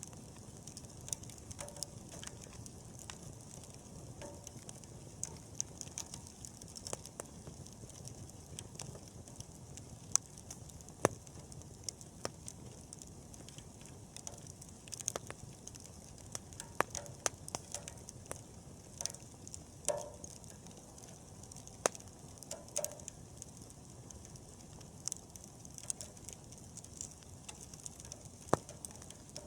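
Wood bonfire crackling: irregular sharp pops and snaps from the burning wood over a steady background noise.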